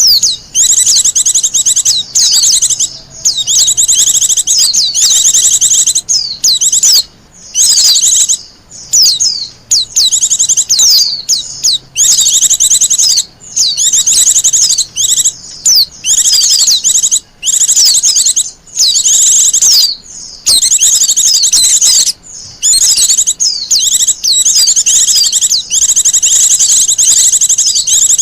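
Wild white-eye (pleci) singing: rapid, high-pitched twittering trills in long phrases broken by brief pauses every second or two.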